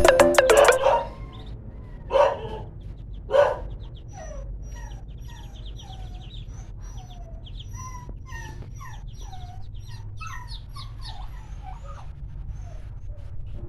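Dog whimpering: two louder yelps about two and three and a half seconds in, then a long run of short, high cries that fall in pitch, several a second, dying away near the end.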